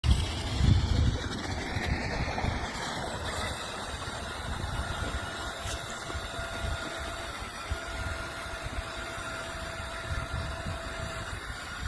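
Toy remote-control monster truck's electric motor running: a faint steady whine over a low, noisy rumble.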